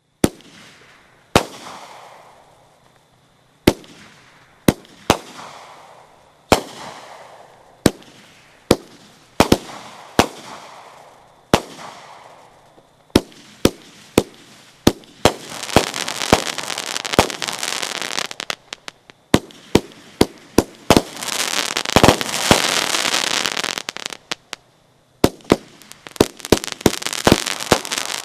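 A 500-gram multi-shot consumer fireworks cake firing shot after shot: sharp reports roughly once a second. Two long stretches of dense crackling in the middle and latter part, and more near the end.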